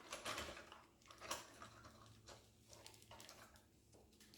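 Faint, scattered small clicks and rustles from hands handling small objects, with several light ticks spread unevenly through it.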